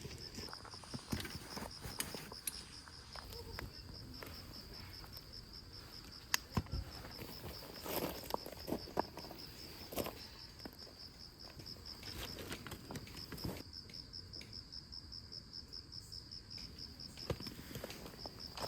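Crickets chirping in a steady, fast-pulsing trill, with scattered clicks and knocks of things being handled close by.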